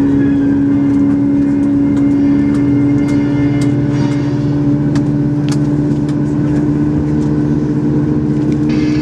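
Steady droning hum inside a Boeing 737 MAX 8 cabin beside the engine, made of a few fixed tones that neither rise nor fall, with faint scattered clicks.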